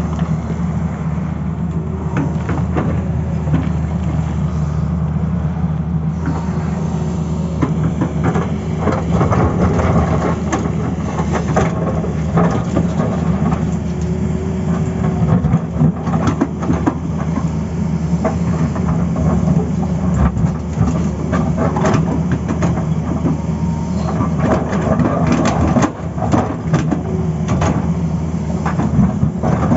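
Tata Hitachi excavator's diesel engine running steadily under load, with irregular knocks and clatter through most of it from the bucket and machine working the road surface.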